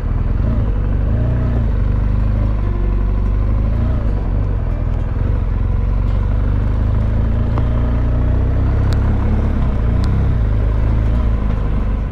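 Motorcycle engine running while the bike is ridden, its pitch rising and falling with the throttle over a heavy, steady low rumble.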